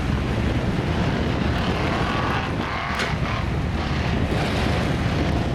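Big mud truck engine running hard, a steady low drone, with a sharp click about three seconds in.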